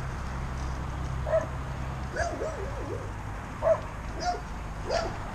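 Short animal calls, yip-like and curving in pitch, repeated about five times over a low steady hum.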